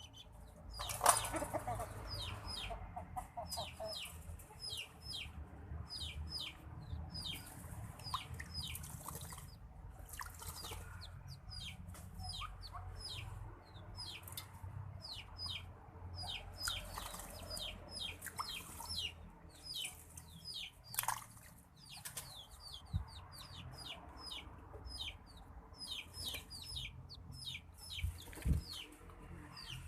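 Birds chirping: short, high chirps that fall in pitch, repeated several times a second, over a low steady rumble. There is a brief noisy burst about a second in and another about twenty-one seconds in.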